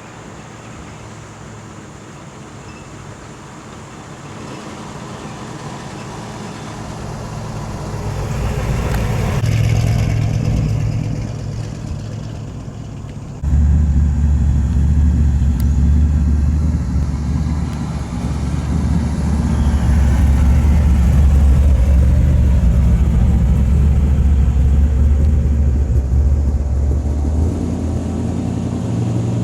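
Car engines: one grows louder and passes about ten seconds in, then a loud, deep, steady engine rumble starts suddenly a few seconds later and eases near the end.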